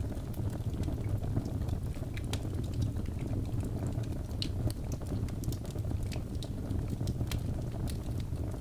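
Wood fire burning in a fireplace: a steady low rumble of flames with irregular crackles and sharp pops from the logs.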